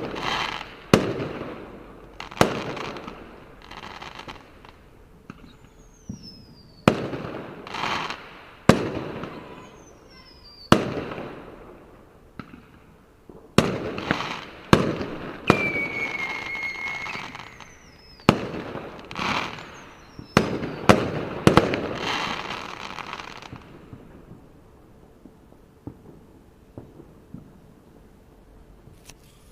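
Fireworks going off: a string of sharp bangs, each trailing off in crackle, with several falling whistles and one longer whistle about halfway through. The bangs stop about three quarters of the way through.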